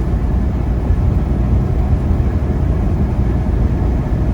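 Steady low rumble of a semi truck cruising on the interstate, engine and tyre noise heard from inside the cab.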